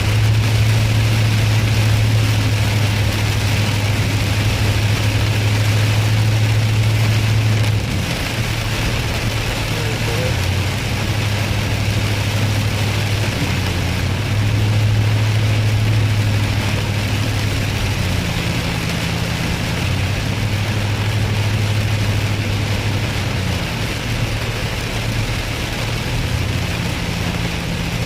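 Heard from inside a vehicle driving through heavy rain: a steady hiss of rain and tyres on the wet road over the engine's low drone, which steps up and down in pitch a few times.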